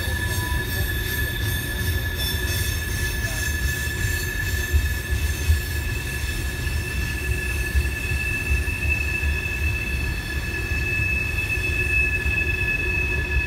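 A train rolling past, its wheels squealing in steady high tones over a low rumble.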